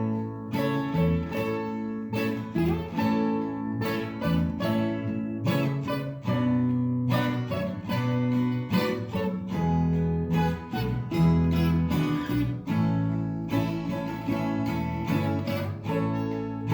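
Background music: strummed acoustic guitar, steady and rhythmic.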